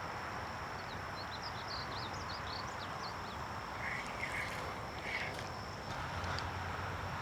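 Birds chirping in quick short calls over a steady outdoor background hiss. Quieter calls come a few seconds in.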